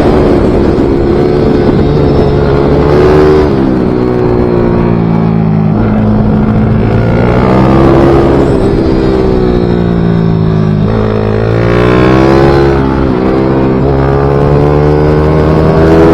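A small pit-bike/MiniGP motorcycle engine at racing revs. Its note climbs and falls repeatedly as the bike accelerates, shifts and slows for corners, dropping sharply about three seconds in and again about eleven seconds in.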